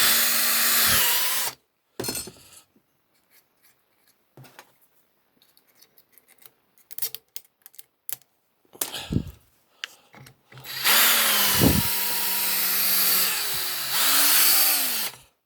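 Small power drill with a high-speed bit drilling out the soft alloy rivet posts of a die-cast toy car. It runs, winds down and stops about a second and a half in, a stretch of small clicks and taps follows, then it runs again for about four seconds from around eleven seconds in, its pitch sagging under load, before stopping.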